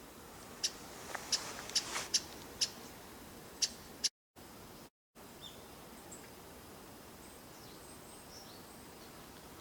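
A wild bird giving a quick irregular series of about eight sharp, short, high call notes in the first four seconds. Fainter high chirps follow over steady background hiss, broken by two brief cuts in the audio.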